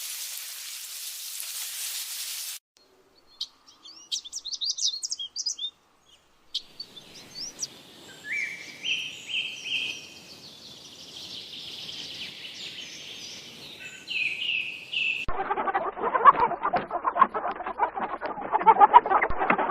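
A steady hiss for the first two and a half seconds, then high quick bird chirps and a songbird singing in short stepped phrases. From about fifteen seconds in, a flock of chickens clucks loudly.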